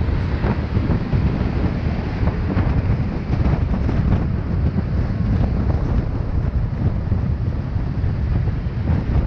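Wind buffeting a camera microphone on a moving motorcycle, a steady loud rumble over the ride noise.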